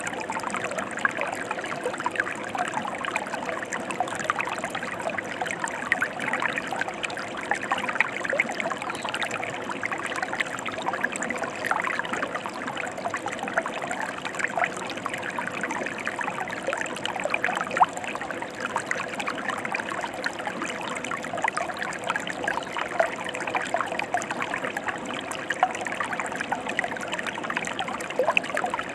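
Mountain stream flowing: a steady babble of running water, full of small splashes and droplet sounds.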